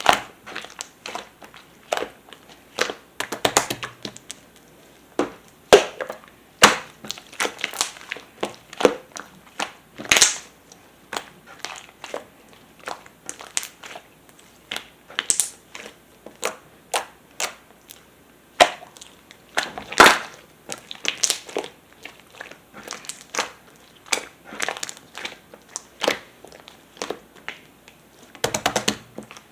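Pearl slime being squeezed and pressed by hand, making irregular sharp clicks and small air pops, several a second, with short quiet gaps between.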